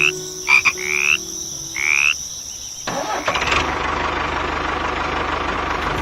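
A frog croaking four times, short rising calls, then just under three seconds in a small engine starts and runs steadily with a fast low pulse.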